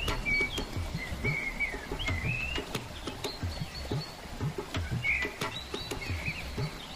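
Small birds chirping and warbling in short rising and wavering phrases, with soft low thuds underneath.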